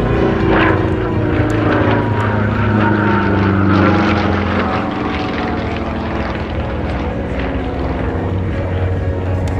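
Sukhoi Su-26MX aerobatic plane's nine-cylinder Vedeneyev M-14P radial engine and propeller droning loudly in flight, the pitch sliding down over the first few seconds and then holding fairly steady.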